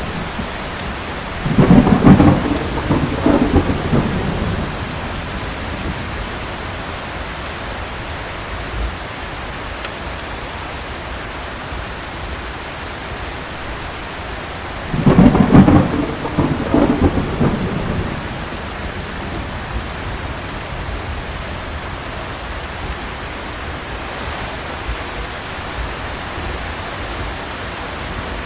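Thunderstorm: steady heavy rain with two loud thunderclaps, about a second and a half in and again about fifteen seconds in, each rumbling on for two to three seconds.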